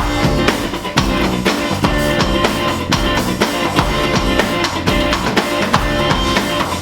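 A band playing a song together: a drum kit with kick, snare and hi-hats keeps a steady beat under bass and guitar, starting suddenly.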